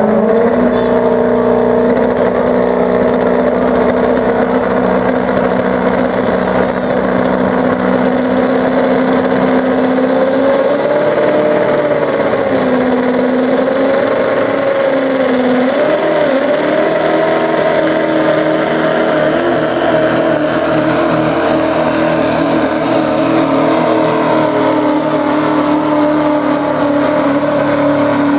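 Duramax turbodiesel V8 pickup engine running flat out under load while pulling the sled, a loud sustained drone whose pitch holds mostly steady, wavers and dips about halfway through, then settles a little higher.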